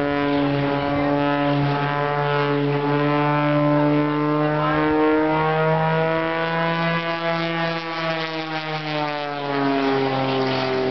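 Propeller airplane engine droning steadily overhead, its pitch rising slightly in the middle and then dropping near the end as it passes.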